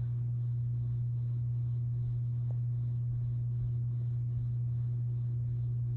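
Harbor Breeze Contempo ceiling fan running on medium speed, its motor giving a steady low buzz at one unchanging pitch. The owner calls the fan "pretty buzzy".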